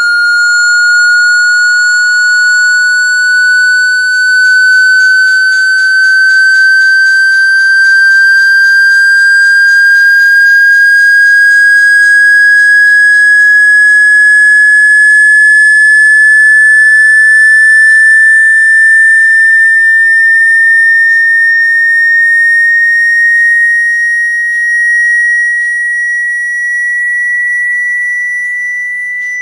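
Electronic sine tone of the kind played to shake water out of a phone speaker: one loud, pure note rising slowly and steadily in pitch.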